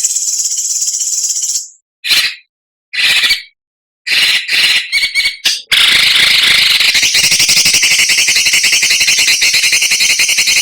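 Songbird giving harsh, buzzing rapid trills of the coarse 'besetan' kind: a buzz of about a second and a half, a few short bursts with gaps between, then from about six seconds in one long, continuous rattling buzz.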